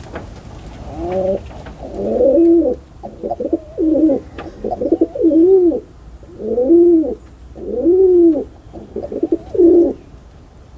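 Pigeon cooing: a run of low coos, each rising and then falling in pitch, repeated about every second and stopping shortly before the end.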